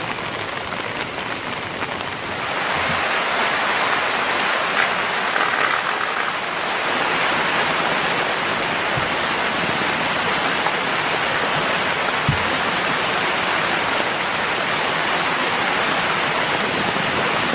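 Steady rain, which grows louder about two seconds in, with a few faint ticks over it.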